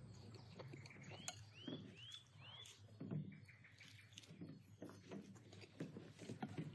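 Quiet, wet chewing and smacking of a man eating roasted lamb meat off the bone. A bird chirps four times in the background, about two chirps a second, between one and three seconds in.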